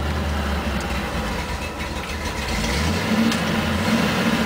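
The 1971 Ford F-100's 428 V8 engine running, its note rising about three seconds in.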